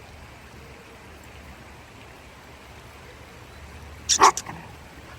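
A dog barking: a quick burst of two or three short barks about four seconds in.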